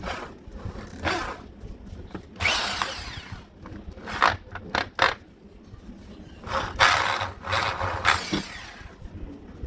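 Makita HP1620 impact drill running in several short bursts, each under a second, with brief pauses between.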